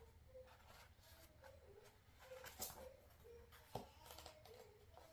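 Near silence with faint paper handling: a few soft rustles and taps as the pages of a picture book are turned.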